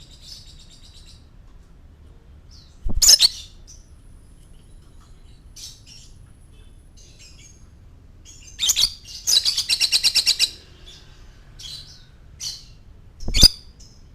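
Lovebird chirping in short sharp calls, with a fast rattling trill of about eight pulses a second around the middle, and two loud calls near the start and the end.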